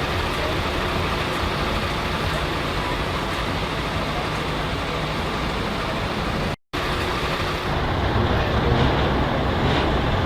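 Heavy truck engines running as trucks drive in, a steady rumble of traffic. The sound drops out for an instant about two-thirds through, and the low engine rumble is louder after it.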